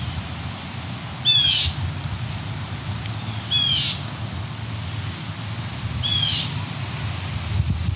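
A bird calling over and over, one short curved high note about every two and a half seconds, over a steady outdoor hiss.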